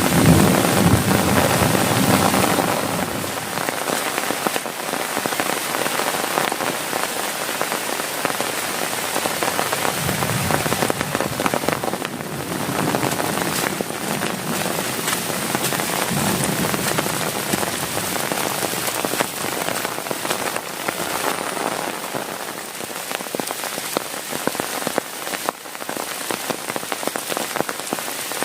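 Heavy rain beating steadily on a tent, a dense patter of countless drops. Brief low rumbles swell up near the start and again around ten and sixteen seconds in.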